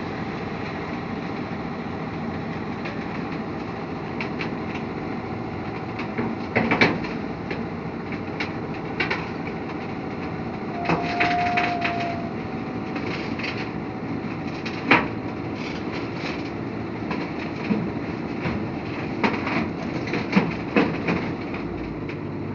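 Construction-site noise: a machine engine running steadily under scattered knocks and clanks, a few of them sharp, with a brief squeal-like tone about eleven seconds in.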